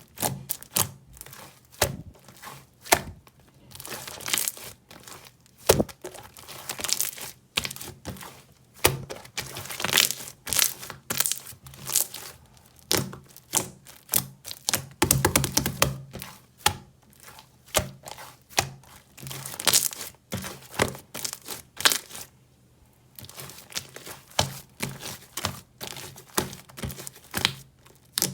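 Crinkling and crackling of a large, blue, transparent jelly-like object squeezed and handled by hand: many irregular sharp crackles and clicks, thickest about halfway through, with a brief lull a little later.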